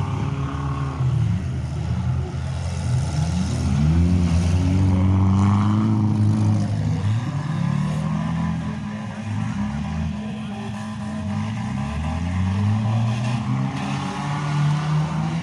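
Several demolition derby cars' engines revving at once, their pitches rising and falling and overlapping.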